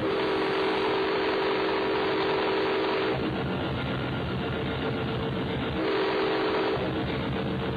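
Train horn sounding a steady chord for about three seconds, then a shorter blast near the end, over the steady rumble of a moving train.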